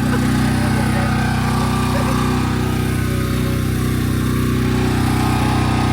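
An engine running steadily at an even speed, a constant hum.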